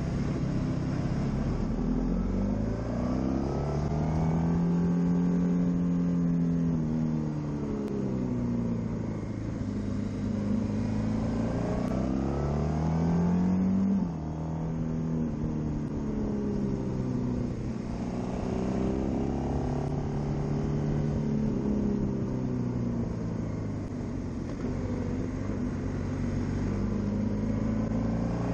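Honda VFR800X Crossrunner's V4 engine under way, its pitch rising and falling smoothly as the rider accelerates and eases off through the bends, with a sudden drop in pitch and level about halfway through. A steady rush of wind runs underneath.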